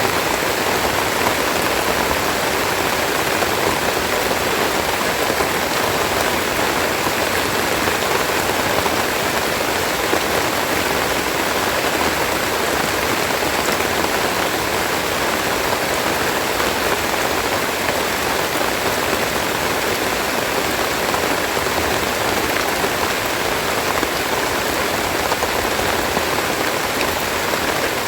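Steady rain falling, a dense even hiss of drops on leaves and surfaces.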